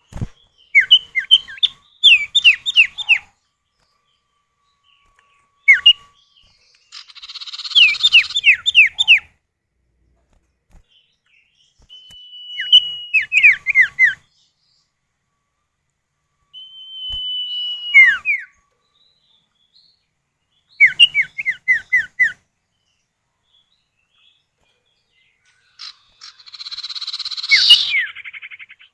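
Common iora (cipoh) male and female calling back and forth: runs of quick, falling whistled notes, long drawn whistles that drop sharply at the end, and twice a harsh rasping chatter, each phrase a few seconds apart.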